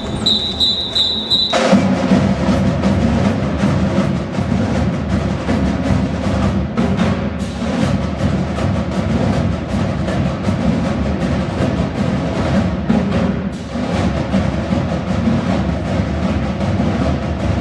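A few short, high whistle blasts, then about a second and a half in a high school marching band comes in with its pre-game music: drums and percussion driving under the full band.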